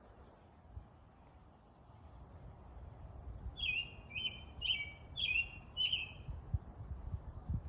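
Birds chirping. Faint, thin, high single chirps come in the first half, then from about halfway a louder bird repeats the same short call five times, about two a second. A low rumble runs underneath.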